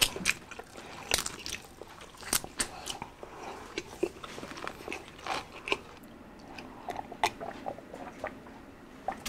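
Close-up crunching and chewing of crispy deep-fried pork, a run of sharp, irregular crunches that thin out near the end.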